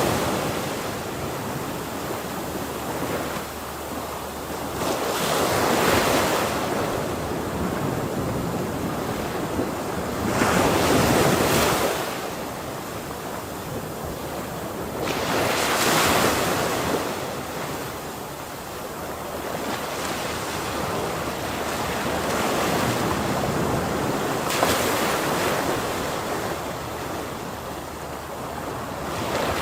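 Ocean waves breaking on a shore, a steady surf wash with swells cresting every four to six seconds, the later ones gentler.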